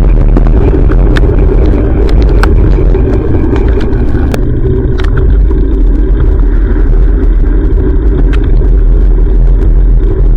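Steady loud rumble of road and traffic noise picked up by a bicycle-mounted action camera while riding, with scattered light clicks.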